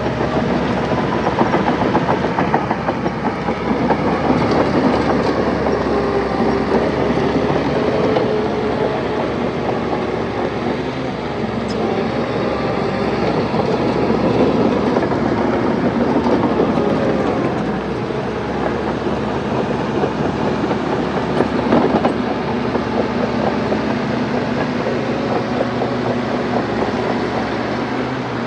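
Bulldozer working, its diesel engine running steadily under load over a continuous clanking clatter of steel tracks.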